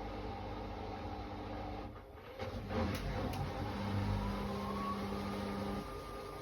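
Hoover H-Wash 500 washing machine on a spin-only cycle set to 1600 rpm: the drum motor hums steadily, dips briefly about two seconds in, then its whine rises in pitch as the drum picks up speed.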